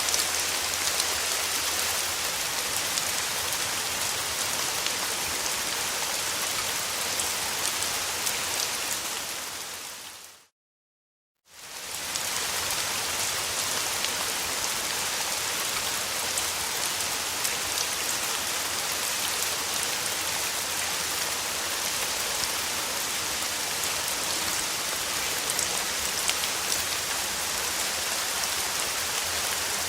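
Rain falling steadily: a dense hiss of drops with scattered individual drop ticks. A little before ten seconds in it fades out to silence for about a second, then fades back in.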